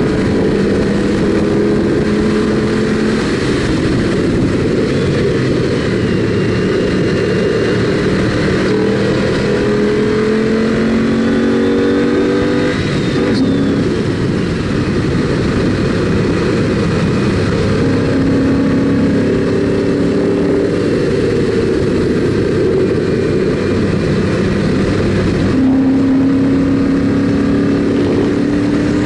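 2006 Ford Mustang GT's 4.6-litre V8 under hard driving on a road course, the revs climbing and falling again and again through gear changes and braking.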